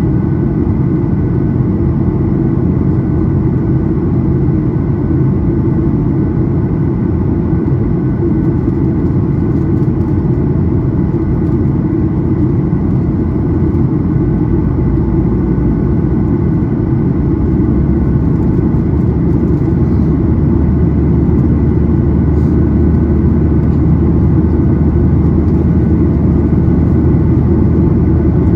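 Steady cabin noise of a Boeing 737-800 in flight: CFM56-7B engine and airflow noise, deep and even, with faint steady tones above it. The low rumble grows a little louder about two-thirds of the way through.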